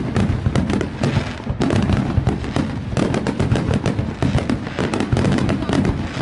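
Dense barrage of fireworks and firecrackers going off without a break, rapid overlapping cracks and bangs, with a short hiss in the first second or so.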